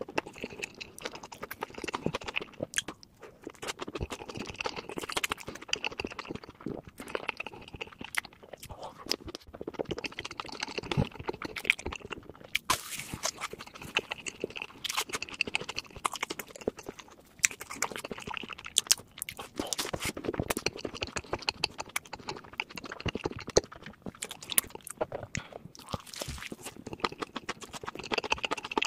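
Close-miked chewing and crunching of food: dense, irregular wet clicks and crackles with brief pauses between mouthfuls.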